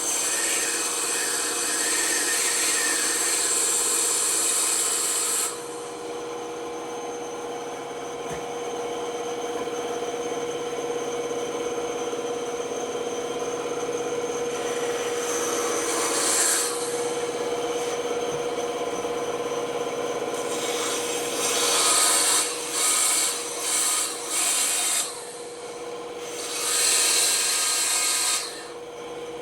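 Bandsaw running steadily, its blade cutting wood in several passes: a hissing cut for the first five seconds or so, then a brief one, then a run of short and longer cuts in the last third, with the motor's steady hum between.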